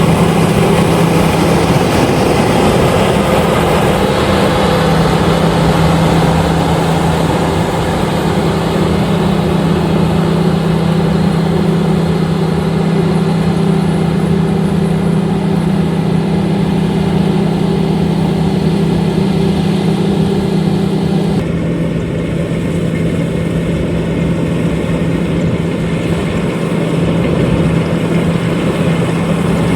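LOVOL RG130EVO combine harvester running steadily with a constant engine hum under the machinery noise. The sound turns abruptly duller about two-thirds of the way through.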